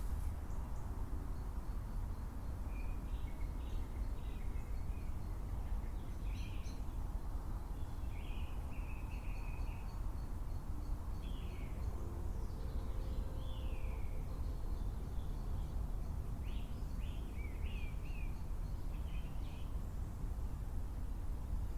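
Wild birds calling now and then: short chirps and a few falling whistles. Under them runs a steady low rumble of outdoor background noise.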